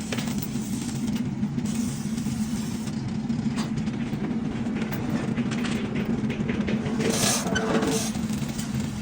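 A machine running steadily with a low hum, with scattered clicks and a short hissing burst about seven seconds in.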